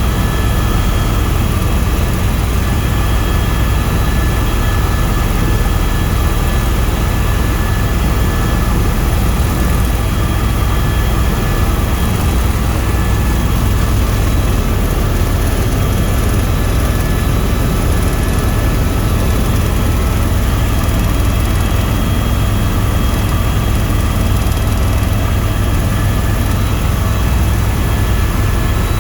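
Tour helicopter's turbine engine and rotors running steadily in flight, heard from the passenger cabin: a constant heavy low rumble with a few thin, steady whining tones above it.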